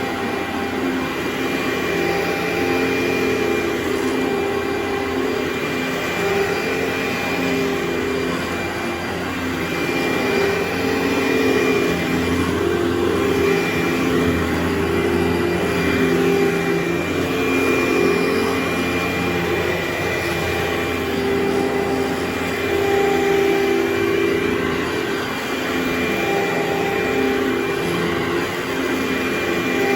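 Carpet cleaning machine's suction motor running steadily: a loud drone with a faint high whine, swelling and easing slightly in loudness as the carpet is worked.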